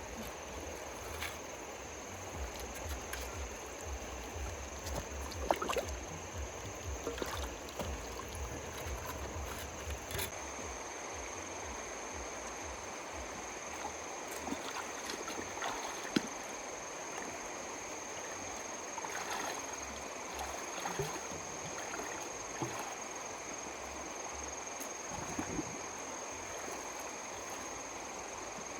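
Steady rush of water with a faint high whine throughout, a low rumble that fades about a third of the way in, and scattered splashes and knocks.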